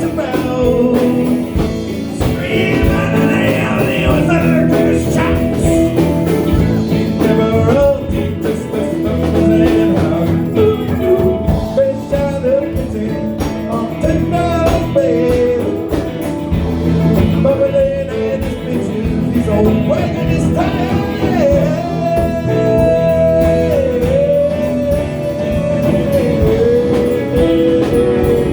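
Live band music: a rock band playing with guitars and singing, a melodic line gliding and bending over the steady accompaniment.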